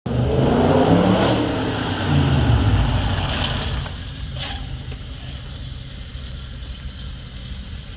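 Car engine revving, its pitch rising and falling, loud for the first four seconds, then dropping back to a quieter steady running sound.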